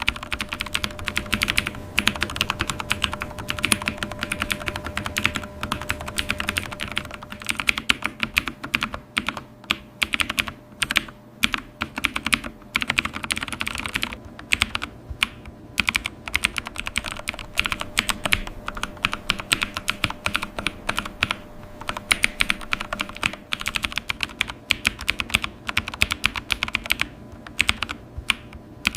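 Typing on a computer keyboard: a steady stream of rapid key clicks, with a few short pauses.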